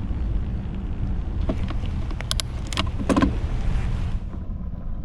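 Mountain bike's knobby tyres rolling on pavement, a steady low rumble, with a few sharp clicks and rattles about two to three seconds in.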